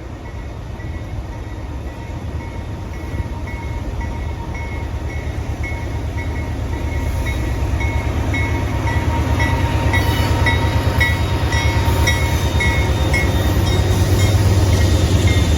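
Freight train approaching, its diesel rumble growing steadily louder as it draws nearer, with a bell ringing about twice a second and a thin steady whine above.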